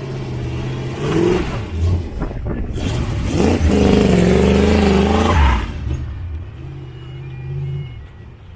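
Car engine revving and accelerating as the car drives past. It rises about a second in, is loudest about three and a half to five and a half seconds in, then fades as the car moves away.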